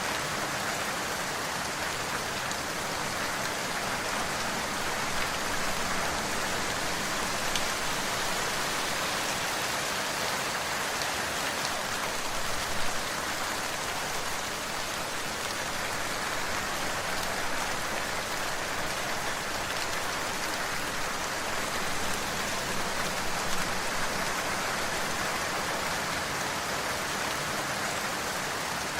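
Steady rain falling on a surface, an even patter with a few louder single drops now and then.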